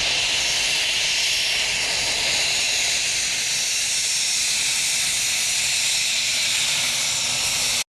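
Embraer Phenom 100E business jet's turbofan engines running: a steady high hiss with a faint thin whine. It cuts off suddenly near the end.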